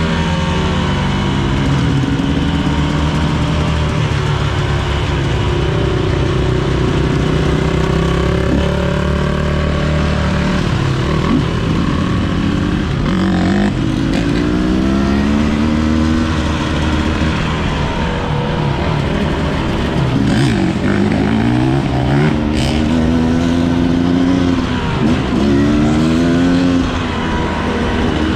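Enduro motorcycle engine running under way, its pitch climbing and dropping back several times as the rider accelerates and changes gear, over a steady low hum.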